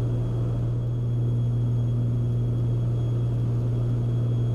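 Steady drone of a Beechcraft Baron B55's twin piston engines and propellers in the cockpit during cruise, a deep even hum with no change in pitch.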